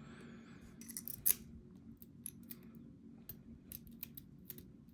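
Light metallic clicks and scrapes from handling the reassembled Goal V18 dimple lock, with one sharper click about a second in.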